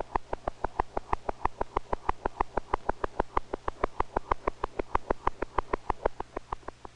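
Rapid, evenly spaced heartbeat sound, about eight beats a second, standing for a bird's fast heartbeat, over a low steady hum.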